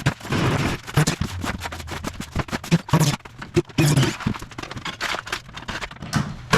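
Power drill driving out cement-board screws in short irregular bursts, with knocks and scrapes as the driver bit slips in the screw heads. The bit is being worn round.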